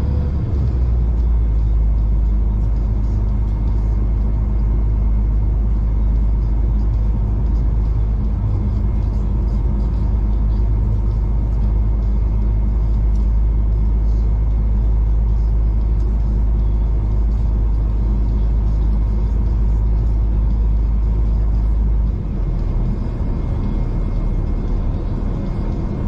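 V/Line passenger train running, heard from inside the carriage as a loud, steady, deep rumble. Near the end the deepest part of the rumble eases off.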